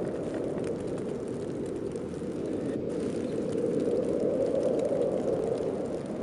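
Heavy snowstorm wind blowing in a steady rush, swelling a little about four seconds in.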